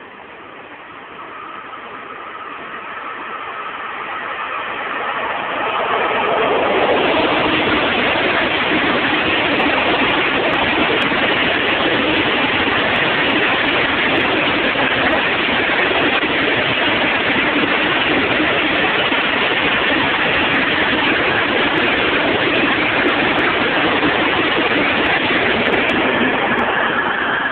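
Freight train passing through a station at speed: its noise builds over the first six seconds as it comes in, then the wagons go by close with a loud, steady rush of wheels on rail, easing slightly near the end.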